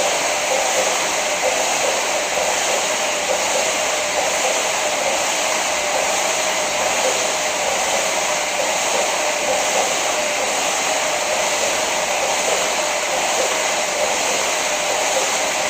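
KayakPro paddle ergometer's air-fan flywheel whirring steadily while being paddled.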